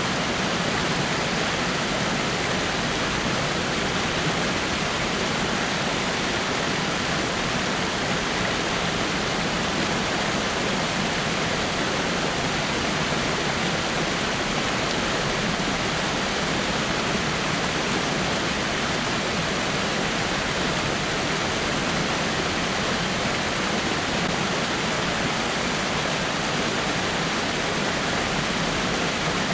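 Water falling steadily over rocks: an even, unbroken rush of a small waterfall.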